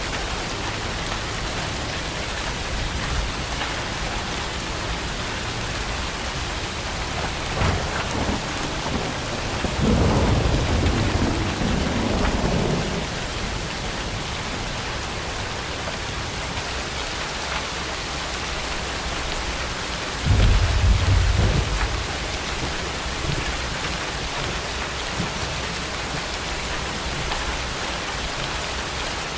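Heavy rain falling steadily, with thunder: a crack about seven seconds in, then a low rumble lasting about three seconds, and another short heavy rumble near the two-thirds mark.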